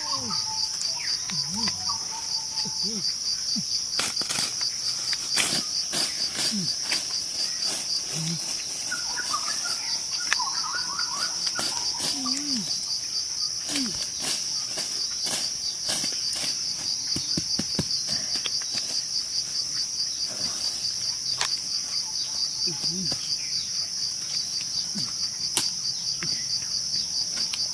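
A steady chorus of insects, a high pulsing trill that never lets up, with scattered sharp clicks and a few faint short calls over it.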